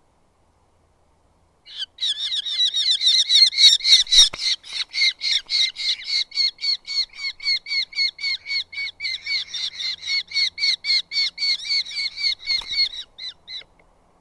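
Eurasian hobby calling: a long rapid series of sharp, repeated notes, about four a second, starting about two seconds in and stopping shortly before the end.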